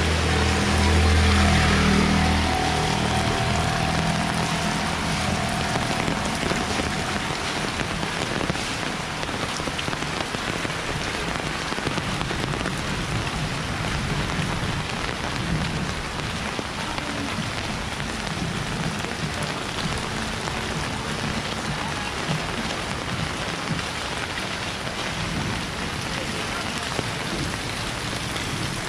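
Heavy rain pouring steadily, a dense hiss of falling water. A vehicle engine's low hum sits under it at the start and fades out within the first few seconds.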